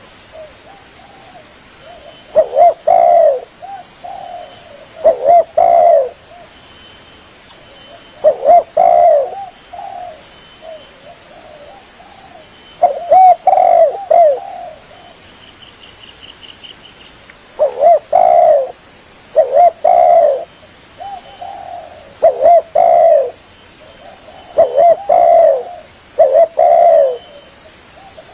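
Spotted dove cooing: short phrases of low, throaty coo notes, about nine of them, repeated every few seconds.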